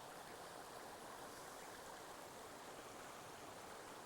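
Mountain stream running: a faint, steady rush of water.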